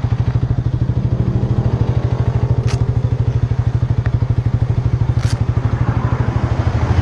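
Harley-Davidson V-twin motorcycle engine idling with a steady, even pulsing beat.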